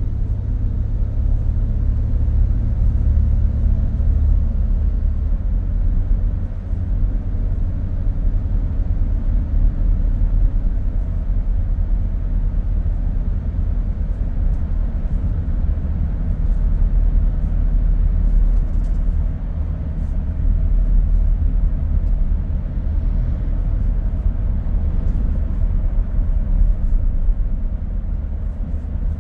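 Car driving along a road: a steady low rumble of tyres and engine, with faint engine tones in the first few seconds.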